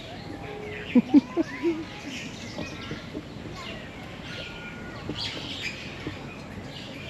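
Several birds chirping and calling, with many short high chirps and gliding notes, and a quick run of four loud, short, low notes about a second in.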